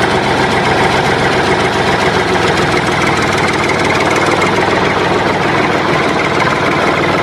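Tractor diesel engine running steadily with a fast, even knocking beat.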